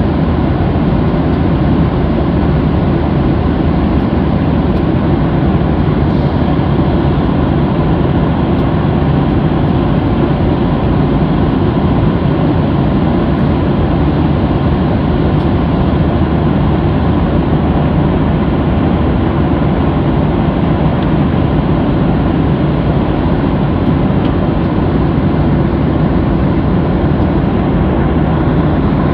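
Airliner cabin noise in flight: the steady, unbroken rush of jet engines and airflow heard from a passenger seat, with a faint steady hum.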